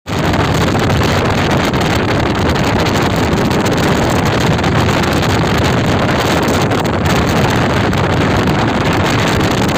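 Speedboat running under way, its steady motor noise mixed with strong wind buffeting the microphone.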